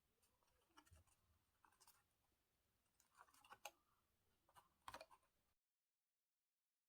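Faint clicks and scratches of paper or cardboard pieces being handled and fitted together, a handful of short sharp sounds; the sound cuts off abruptly about five and a half seconds in.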